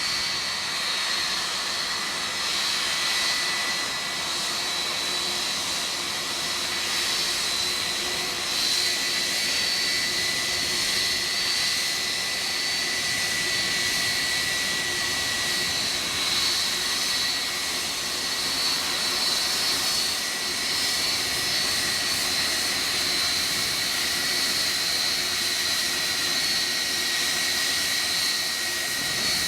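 Jet airliner engines running steadily: a continuous rushing noise with a high, steady whine over it.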